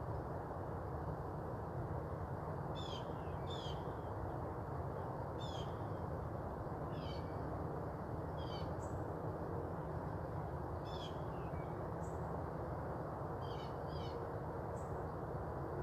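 Birds calling outdoors at dawn: short, sharp notes that fall in pitch, coming singly or in pairs every second or so. A steady low background hiss and rumble runs underneath.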